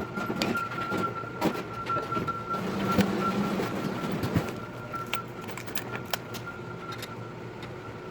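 Sped-up work sounds of grill assembly: scattered sharp knocks, clicks and clanks of parts being handled, over a thin steady whine that fades out about seven seconds in.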